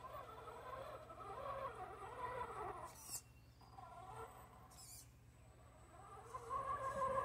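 An RC rock crawler's Novak 55-turn brushed motor whining under throttle. Its pitch wavers up and down as it crawls, drops away in the middle and comes back louder near the end. Two sharp clicks fall in between.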